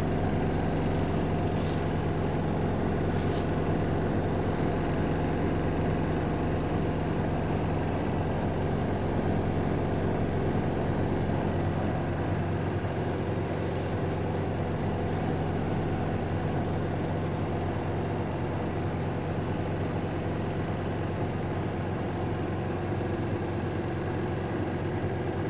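Siemens WN64A2U9IN front-loading washing machine in its final spin, the drum turning at 1400 RPM with a steady, even hum. It runs smoothly, with no sign of vibration.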